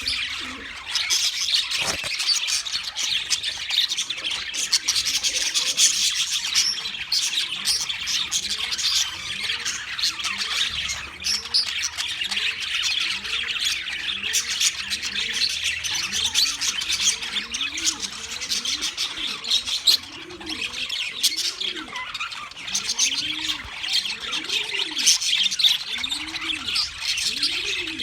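A flock of budgerigars chattering and chirping without pause. From about halfway through, a lower call that rises and falls in pitch repeats roughly once a second under the chatter.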